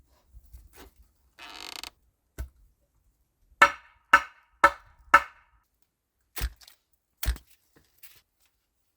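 Hand-tool strikes: a short scrape, a dull knock, then four sharp ringing blows at about two a second, followed by two duller thuds.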